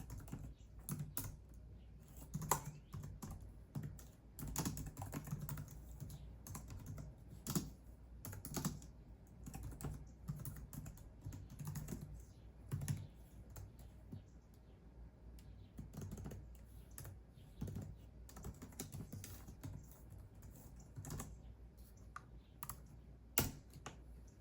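Typing on a computer keyboard: irregular runs of key clicks with short pauses, and one sharper key strike near the end.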